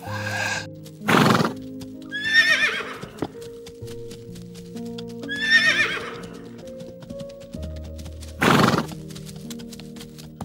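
Horses whinnying twice, falling calls with a shaky pitch, between two short loud snorts, with a patter of hoofbeats, over soft background music.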